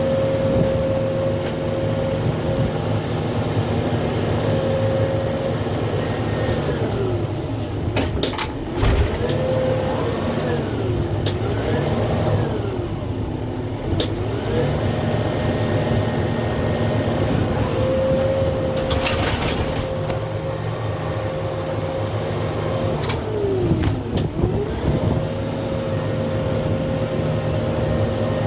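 A Kubota M6-141 tractor's diesel engine running at working revs. Its pitch sags several times as it comes under load from the grapple work and recovers each time. A few sharp cracks and snaps of brush and wood are heard along the way.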